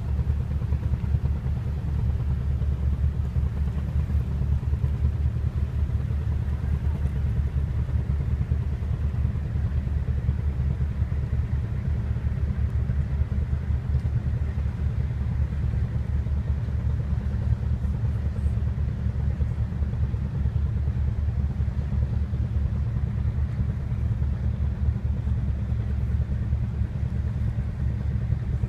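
A cruise boat's engine running with a steady, low drone that stays unchanged throughout.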